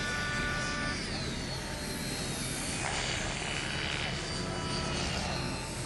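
Blade mCP X micro RC helicopter in flight, its motors and rotor blades whining steadily, with gusty wind noise on the microphone.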